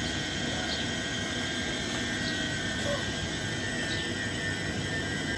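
Electric train running: a steady rumble with a steady high whine over it.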